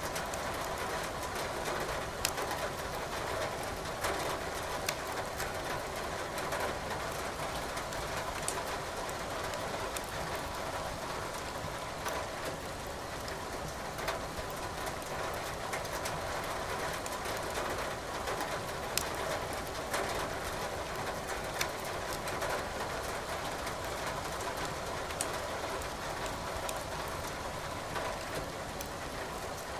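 Wood fire crackling in a fireplace, with sharp, scattered pops from the burning logs over a steady hiss of rain.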